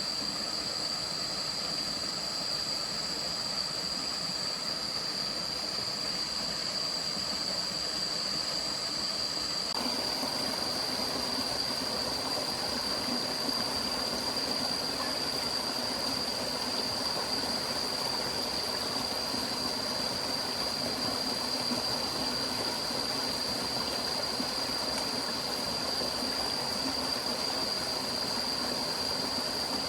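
A stream running steadily, with a constant high-pitched tone above the water. The water sound becomes fuller and deeper about ten seconds in.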